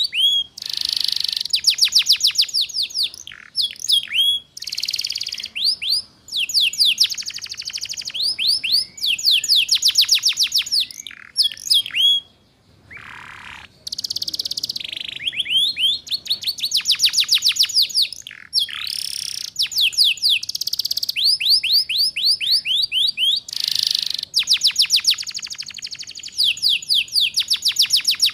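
Domestic canary singing phrases of rapid, high trills, each made of quickly repeated falling notes, with short pauses between phrases. This is the fast 'ngeriwik' trilling used as a lure song for teaching young canaries.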